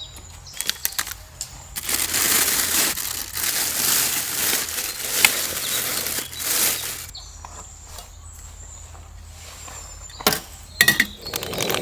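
Crinkly rustling and handling noise for several seconds, like fabric or plastic being gathered or folded, with scattered clicks at the start and a few sharp clicks near the end.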